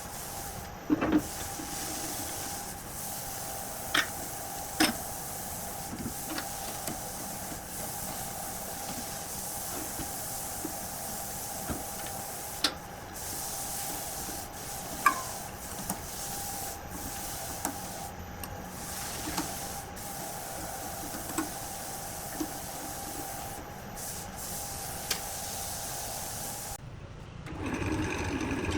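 A small machine's steady hum with a hiss, broken by a few sharp clicks, cutting off near the end.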